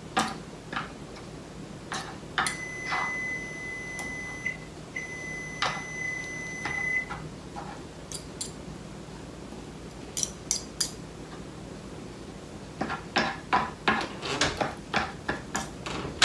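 A kitchen appliance beeping twice, each a long, steady, high beep of about two seconds. Light clicks and clatter of utensils on a dish, with a quicker run of them near the end, while cooked beef is being shredded.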